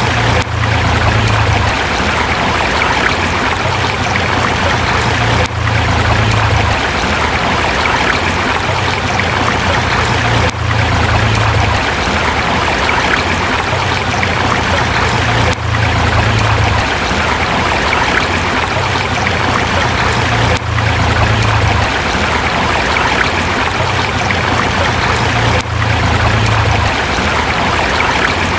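Forest river flowing over rocks: a steady rush of running water, with a brief dip in level about every five seconds.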